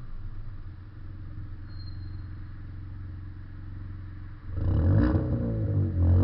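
Ford Fiesta Zetec S EcoBoost's Cobra cat-back exhaust, heard from a camera mounted at the car's rear while driving: a steady exhaust drone, then about four and a half seconds in it gets much louder as the car accelerates, its note rising and falling.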